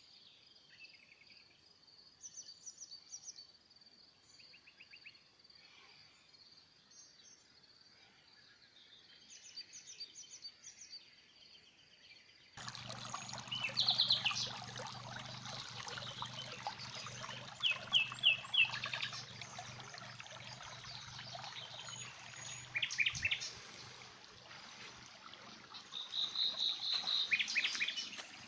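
Small birds chirping and singing, several short repeated trills. At first faint over a steady high whistle; about twelve seconds in the sound cuts abruptly to a louder, noisier recording with a low hum underneath and clearer, stronger chirps.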